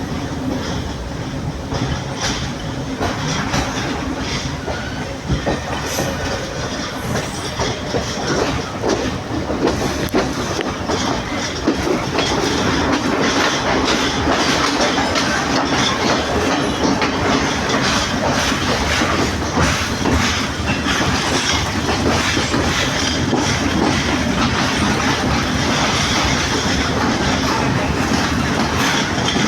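Sri Lanka Railways Class S11 diesel multiple unit, an Indian-built power set, running along the track with its wheels clicking over the rail joints. It gets louder about twelve seconds in.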